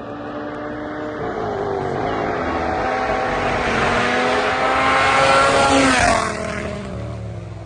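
Rally car approaching at full throttle, its engine note rising and getting louder until it passes about six seconds in, where the pitch drops sharply, then fading as it drives away.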